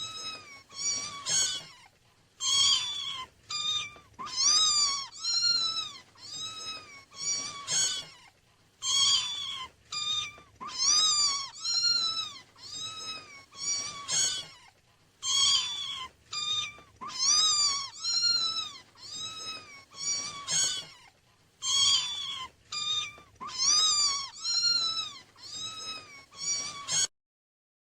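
Kittens meowing over and over in high, thin calls that rise and fall, some in quick runs. The calls stop abruptly about a second before the end.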